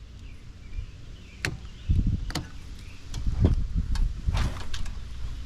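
Hand-tool work on a scrap dishwasher: a string of sharp metallic clicks and snips, with a few heavy low knocks of handling in between.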